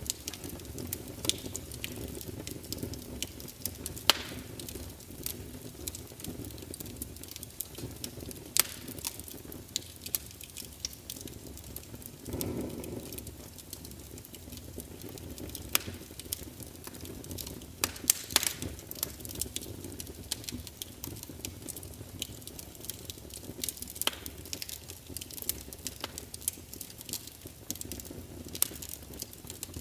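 Wood fire crackling: irregular sharp pops and snaps over a steady low rumble of burning logs, with one brief louder swell about twelve seconds in.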